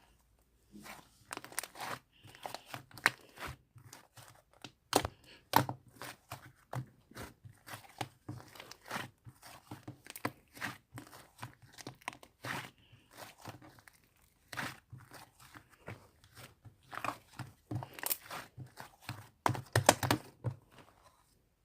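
Slime being squished, stretched and pressed by hand, making irregular sticky pops, clicks and crackles with a few short pauses, louder bursts of pops about five seconds in and near the end.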